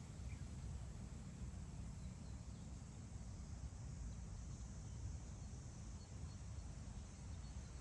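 Wind blowing across open grassland, buffeting the microphone in a steady, gusting low rumble, with a few faint, distant bird chirps.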